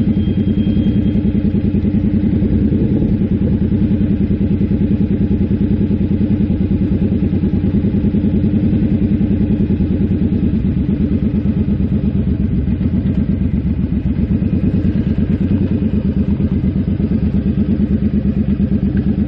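Suzuki Boulevard C50's V-twin engine running at a steady pitch with an even, rapid exhaust pulse.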